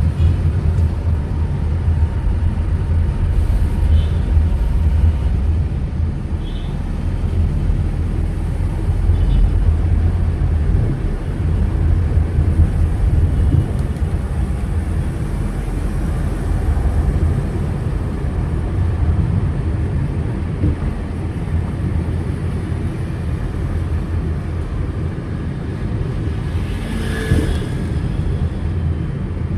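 Steady low rumble of a car driving through city traffic: engine and road noise. A brief, higher sound stands out near the end.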